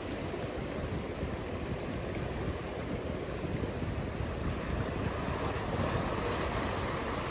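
Ocean surf breaking and washing ashore, a steady rushing noise that swells slightly in the second half.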